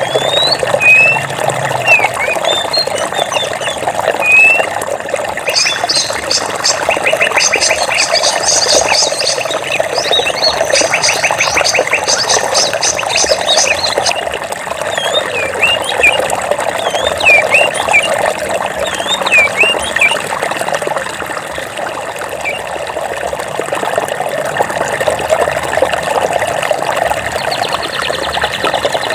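Flowing water running steadily, with birds chirping over it in short calls. A rapid, dense trill joins from about six seconds in and stops abruptly around fourteen seconds. A fine, fast high pulsing starts near the end.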